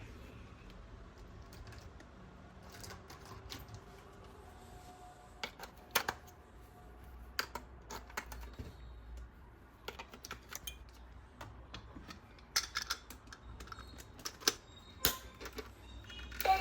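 Scattered plastic clicks and taps at irregular intervals, from toys and their packaging being handled, with a small cluster of quick clicks near the end.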